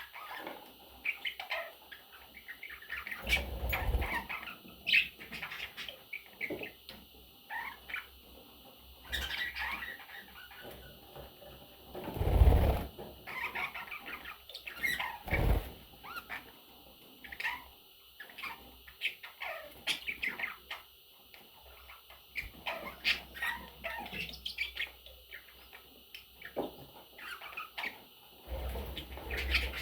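Pet budgerigars chirping and twittering in many short calls, with bursts of wing flapping and a loud thump about twelve seconds in.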